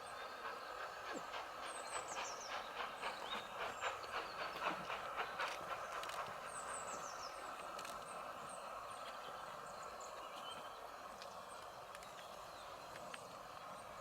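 A train passing, with a run of rhythmic clicks about three a second that builds and fades over a few seconds, under a steady rumble. Birds chirp high above it.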